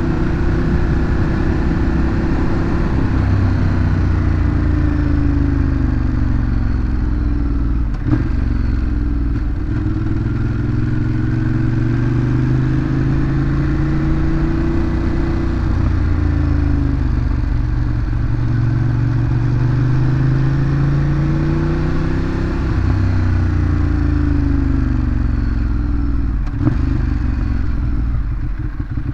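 Ducati Monster 821's Testastretta V-twin through its stock exhaust, under way, its pitch rising and falling over and over as the rider opens and closes the throttle through the gears. Two sharp knocks come about eight seconds in and near the end, and the engine settles lower just before the end.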